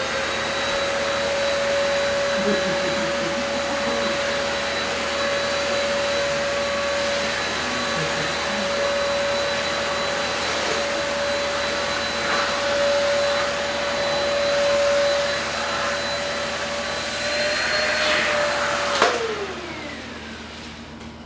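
Deerma vacuum cleaner switched on and running, its motor spinning up to a steady whine over a rush of air as it sucks cat fur off a floor mat. Near the end a click, and the motor winds down with a falling whine.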